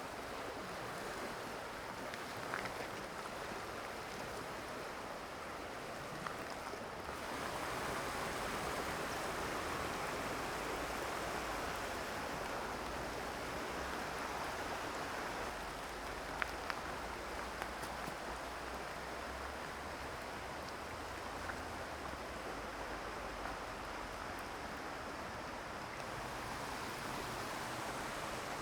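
Mountain stream rushing over rocks, a steady even wash of water that grows a little louder about seven seconds in, with a few faint ticks now and then.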